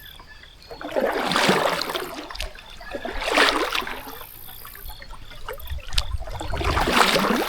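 Kayak paddle strokes in creek water: three swishing, splashing strokes a couple of seconds apart, with faint cricket chirping behind.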